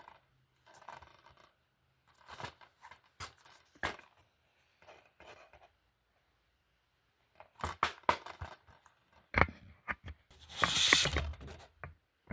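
Scattered clicks, taps and scraping sounds of objects being handled, with a longer, louder scrape near the end.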